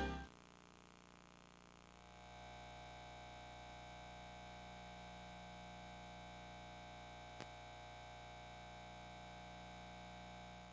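Music cutting off, then a faint steady electrical hum and hiss with several fixed pitches that sets in about two seconds later, with a single faint click partway through.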